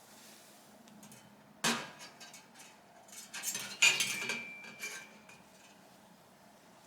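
Small metal carburetor parts being handled and set down, clinking on a hard surface. There is one sharp knock about a second and a half in, then a run of clinks around the middle, one of which leaves a short metallic ring.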